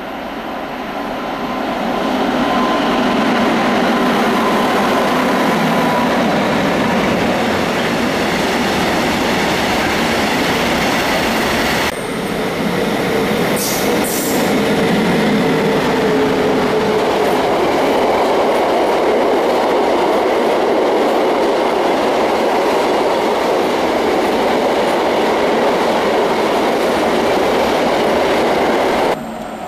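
Freight train of double-deck car-carrier wagons, hauled by two ÖBB electric locomotives, running past close by: a loud, steady rumble and clatter of wheels on rail. It builds over the first couple of seconds, has a brief high screech near the middle, and cuts off abruptly near the end.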